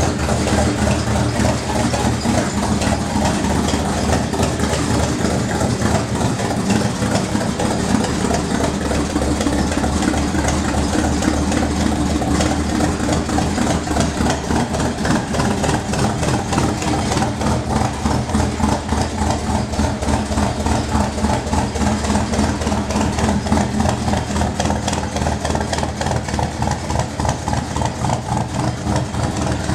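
1964 Chevrolet pickup truck's freshly built engine idling steadily, warming up after a cold start.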